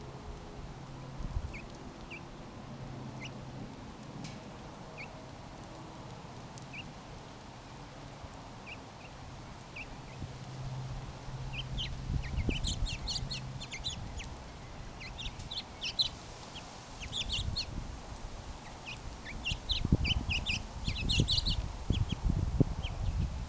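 Small birds chirping: scattered single chirps at first, then a busy run of rapid overlapping chirps from about halfway through. Low rumbles come in near the end.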